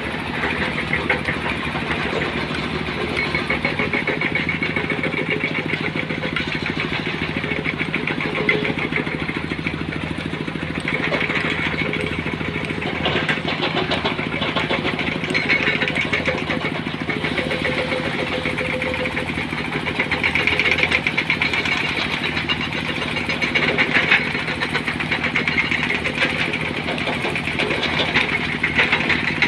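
An engine running steadily near idle, with a fast, even firing beat throughout.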